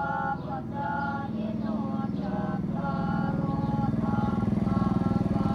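A small motorcycle engine running steadily, with a tune of short held notes sounding over it.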